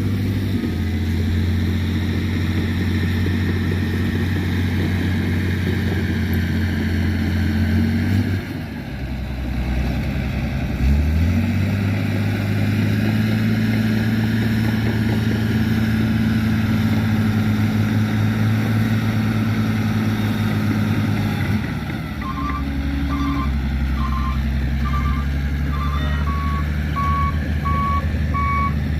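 Isuzu dump truck's diesel engine running steadily, dipping briefly about eight seconds in, then revving up and holding a higher steady speed. Near the end the engine settles back and a reversing alarm starts beeping repeatedly.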